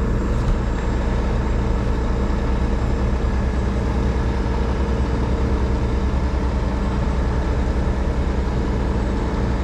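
Heavy diesel engine of a rotator tow truck running steadily at a constant speed, a low even drone with no change in pitch.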